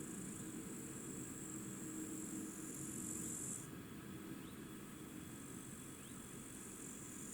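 Insects trilling in a steady high-pitched buzz that breaks off about halfway through, over a faint low rumble.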